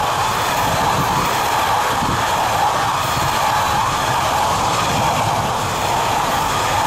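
Intermodal freight train running past, a steady, unbroken noise of wagons rolling on the rails.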